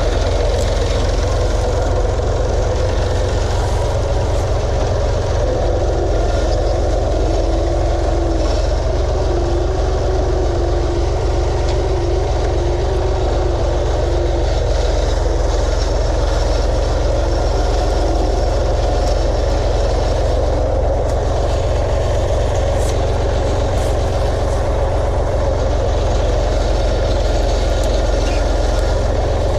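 Engine running steadily at one even speed, a continuous low drone that neither revs up nor dies down.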